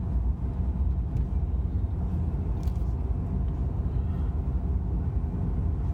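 Steady low rumble of road and engine noise heard inside the cabin of a moving truck.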